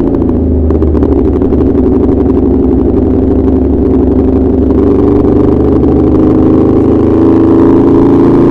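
Aprilia RSV4 RF's V4 engine running through an SC Project S1 Low Position slip-on exhaust. It gives a steady, loud exhaust note whose pitch eases down and then climbs slowly back up, with no sharp revs.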